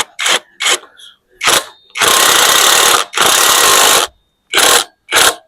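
Power tool run in short trigger bursts while undoing fasteners on an engine. It gives several quick bursts, then two steady runs of about a second each, then two more short bursts.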